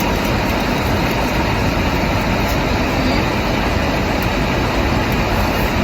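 Steady, loud rushing noise inside a car, with a strong low rumble and no breaks.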